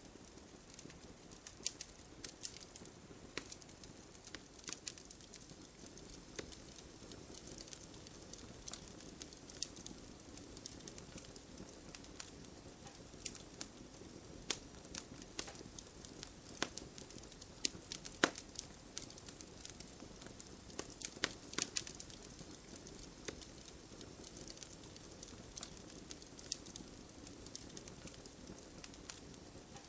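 Wood fire crackling, with irregular sharp pops and snaps over a steady soft patter of rain.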